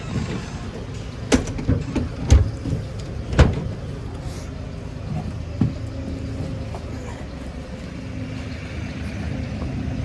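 Tractor engine running steadily, with three sharp knocks in the first few seconds.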